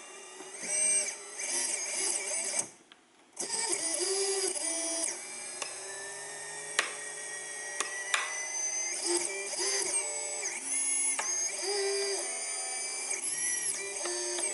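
Small electric motors whining at high pitch, stepping between speeds with some slow rises in pitch, with a few sharp clicks.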